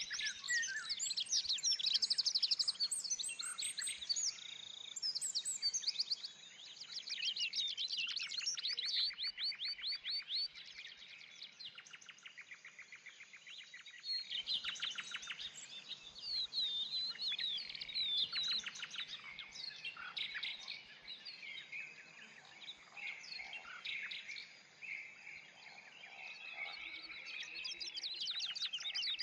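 Several songbirds singing and chirping at once, with fast trills and rapid runs of notes, and a brief lull about halfway through.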